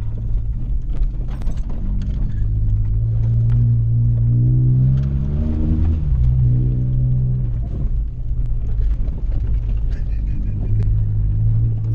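1996 Toyota Celica's four-cylinder engine pulling under acceleration, its pitch climbing for a few seconds, dipping briefly about six seconds in, then pulling again.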